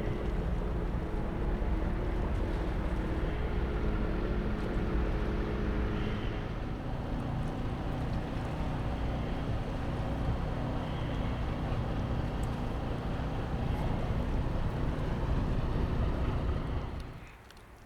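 Fishing boat engine running with a steady hum for the first few seconds, then a steady rushing noise of engine and water. The sound drops away suddenly near the end.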